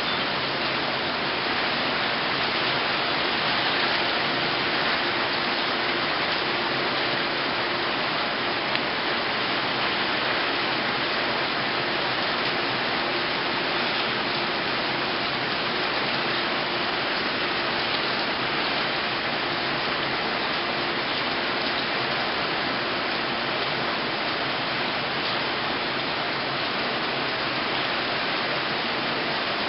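Heavy rain pouring steadily, an even, unbroken hiss of falling water.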